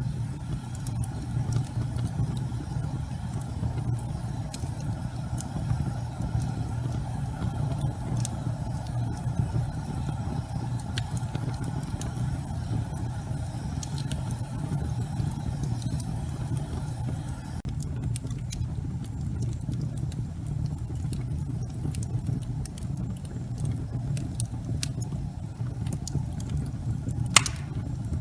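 Logs burning in a fireplace, with a steady low rumble under scattered crackles and one loud pop near the end.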